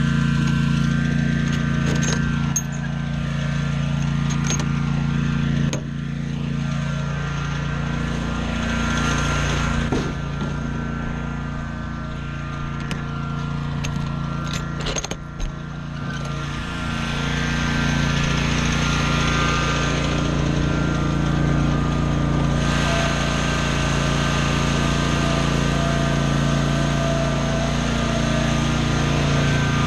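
Small gasoline engine of lawn equipment running steadily at speed, with a few sharp clicks or knocks over it, and a slight dip and change in pitch in the middle.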